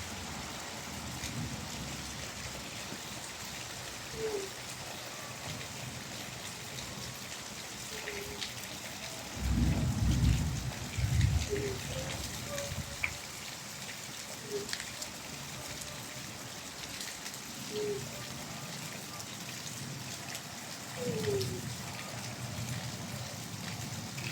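Steady rain falling, with the patter of drops. A low rumble swells up a little under halfway through, with a weaker one near the end.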